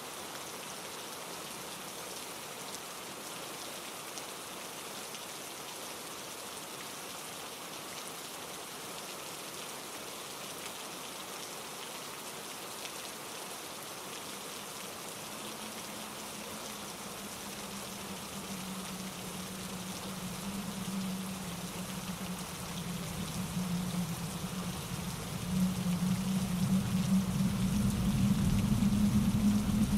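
Steady rain falling, with a low rumble that builds over the second half and is loudest near the end.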